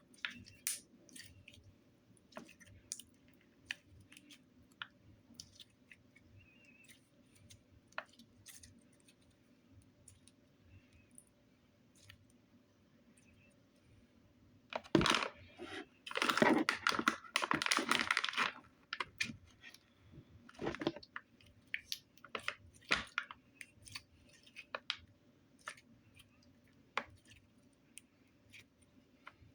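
Hands working a putty-like slime: scattered small clicks and sticky crackles, with a louder few seconds of handling noise about halfway through.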